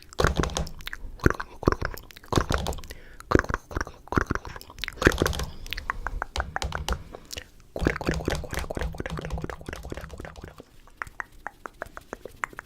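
Close-miked chewing of a crunchy snack: rapid, irregular crunches and bites with short pauses, densest in the first half and near the middle.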